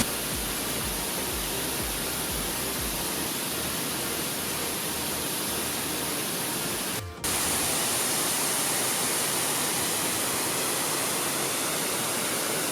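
Steady rushing of a waterfall, an even wash of falling-water noise. It breaks off for a moment about seven seconds in and comes back a little louder.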